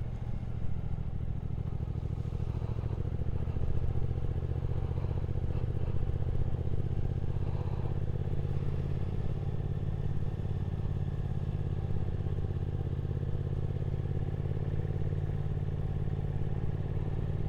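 Triumph Speed Twin 1200's parallel-twin engine running at a steady cruise, heard from the rider's seat, with a steady pitch.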